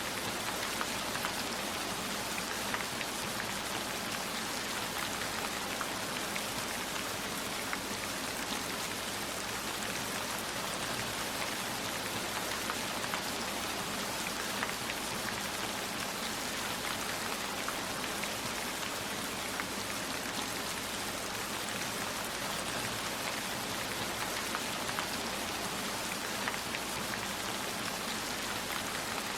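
Steady rainfall, an even wash of noise with many scattered sharp taps of individual drops.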